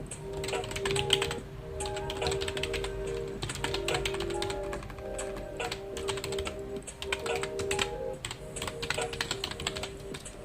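Computer keyboard typing: rapid key clicks in runs with short pauses between them, over soft background music with held notes.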